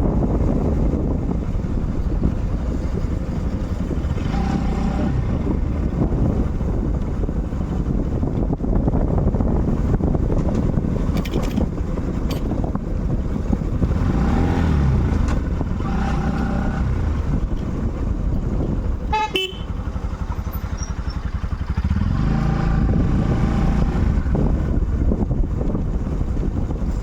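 Motorcycle running on the road with steady engine rumble and wind on the microphone, and a vehicle horn tooting several times in short beeps. A brief run of clicks about two-thirds of the way through.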